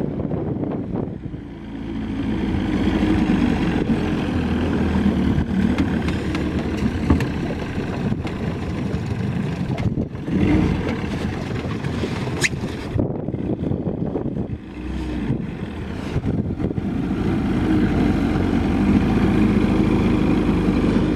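Small outboard motor on a wooden skiff running at idle, a steady low hum.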